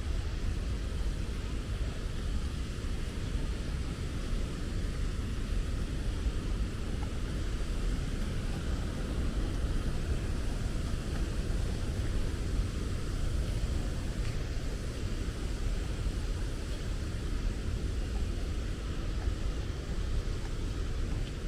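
Waterfall: a steady rush of falling water with a deep, continuous rumble underneath.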